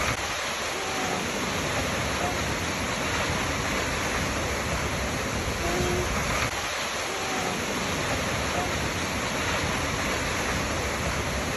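Waterfall: a steady, even rush of falling water. A few faint, short tones sit on top and recur about every six seconds.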